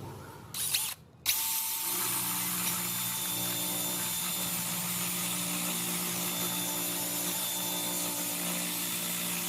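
Electric drill spinning a screw-mounted sandpaper sanding pad. After a short burst just under a second in, it starts about a second in and runs at a steady speed with an even whine and a sanding hiss.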